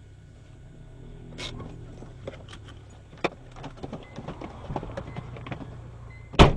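Steady low hum of a car running, with scattered clicks and knocks and one loud thump near the end.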